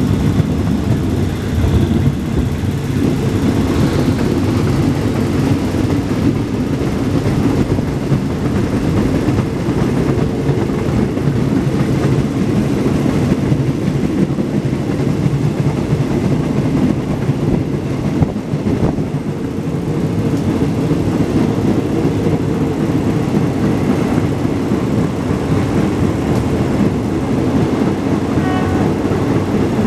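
Diesel-hauled passenger train running steadily, heard from inside a carriage through an open window: a loud, continuous low rumble of the engine and the wheels on the rails.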